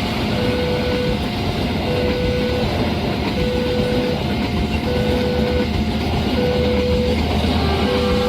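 A train passing over a level crossing with a steady rumble, while the crossing's warning alarm repeats an alternating two-tone signal.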